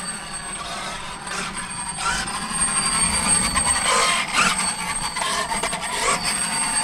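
Losi 5ive TE 3.0 large-scale electric RC truck driving, with a steady high motor whine over rough tyre and ground noise that grows louder a couple of seconds in.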